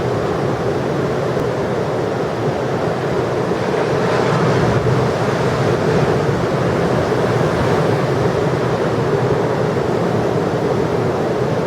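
Large ocean surf breaking and rushing ashore, a steady roar of water that swells a little about four seconds in, with wind buffeting the microphone.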